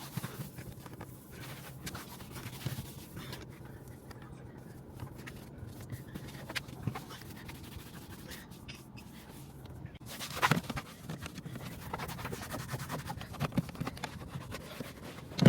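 Cleaning wipes rubbing over a car's interior surfaces, with scattered small clicks and taps and one sharper knock about ten and a half seconds in.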